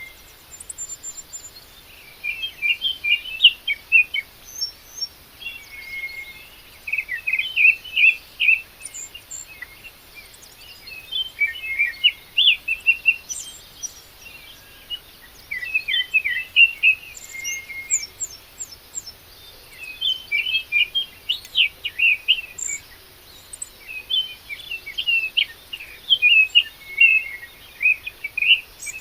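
A songbird singing: phrases of rapid, varied chirps, each two to three seconds long, repeated about seven times with short pauses between.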